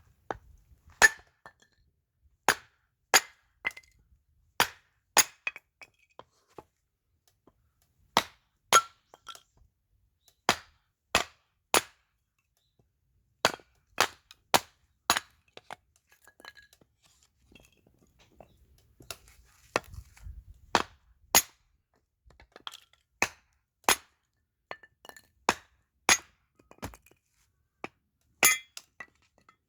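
Axe blows splitting firewood: over twenty sharp cracks, some with a short ring. They come in runs of several strikes a second or so apart, with a pause of a few seconds about halfway through.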